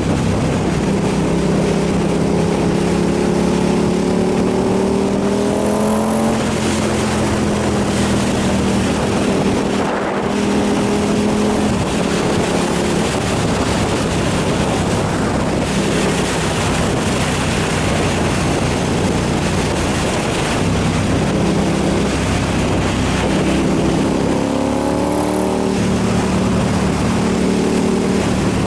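KTM 990 SMR's 999 cc V-twin engine under way with wind rush. The engine note climbs for the first six seconds and drops at a gear change, runs steady, then climbs again and drops with another shift near the end.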